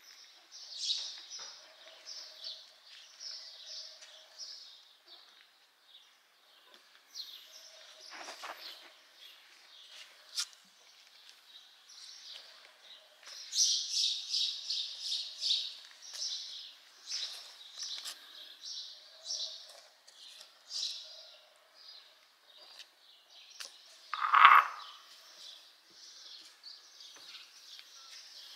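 Small birds chirping in quick repeated high notes, on and off throughout, with one louder, lower short call about three-quarters of the way through.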